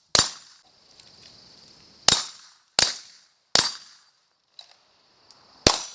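Five pistol shots fired in an uneven string, each a sharp crack with a short tail. Three come close together in the middle, and the last follows a pause of about two seconds.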